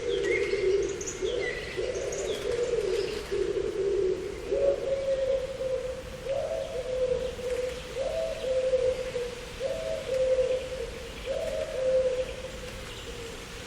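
A dove cooing: low held notes, then a repeated phrase in which a higher note steps down to a lower one, roughly every second and a half, stopping about 12 seconds in. A few small birds chirp briefly near the start.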